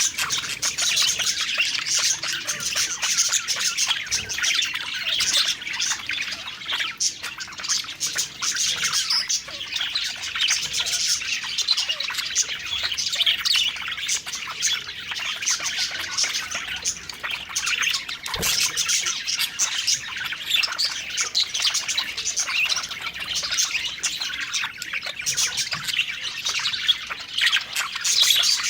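A flock of budgerigars chirping and warbling continuously, a dense chatter of overlapping calls with many short clicks.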